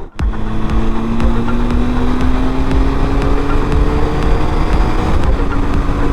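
Motorcycle engine pulling steadily, its pitch climbing slowly as the bike gathers speed, then dropping about five seconds in at an upshift, with heavy wind rumble on the microphone.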